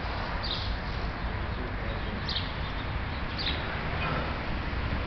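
A small bird chirping: short high descending chirps, about three of them a second or so apart, over a steady background hiss.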